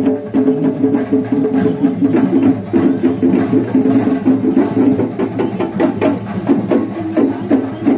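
Kerala temple-festival percussion ensemble playing: rapid, dense drum strokes under a held, shifting melodic line.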